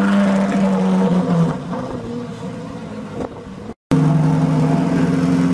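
Ferrari 458 Italia's 4.5-litre V8 running at a steady raised speed as the race car pulls away, fading off about a second and a half in. After an abrupt cut near the end, another 458's V8 runs steadily at a lower, idle-like speed.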